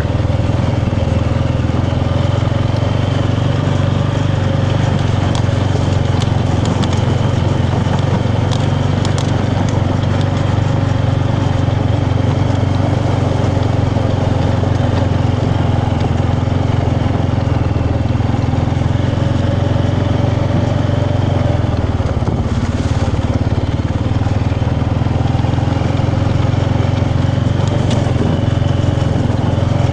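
Motorbike engine running steadily at an even, unchanging pitch, heard from on the bike as it rides along.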